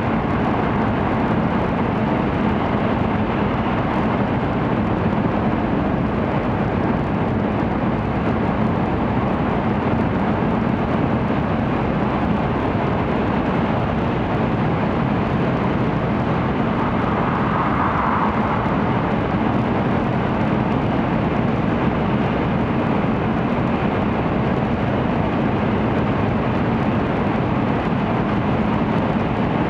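Steady running noise of an N700 series Shinkansen heard inside the passenger cabin: an unbroken low rumble and rush that does not change.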